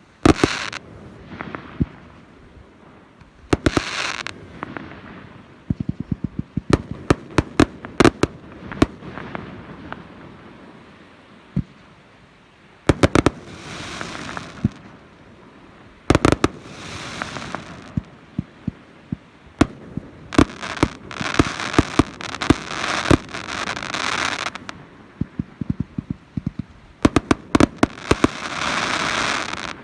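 Fireworks display: shells bursting in a steady run of sharp bangs, often in rapid flurries. Several flurries are followed by a second or more of dense crackling.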